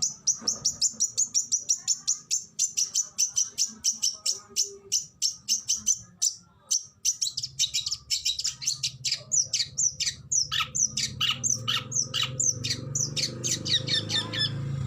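Oriental magpie-robin (kacer) singing a rapid 'tembakan' burst: a fast string of sharp, high chirps, about five or six a second. In the second half many notes turn into quick falling whistles. A low hum runs underneath in the second half.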